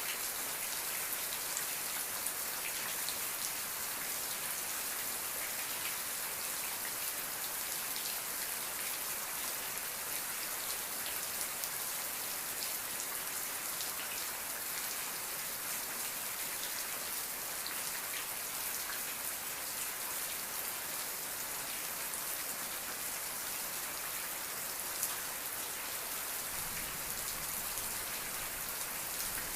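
Steady rain falling: a dense, even hiss with individual drops ticking through it. A faint low rumble comes in near the end.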